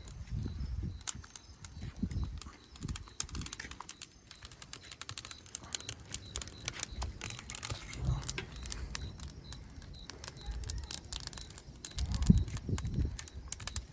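Dry wood and twigs crackling and snapping in irregular clicks, with a few louder low thumps near the end.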